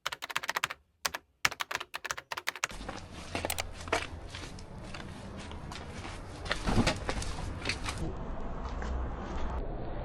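A quick run of sharp clicks like keyboard typing, with dead silence between them, then a steady background hiss with scattered clicks.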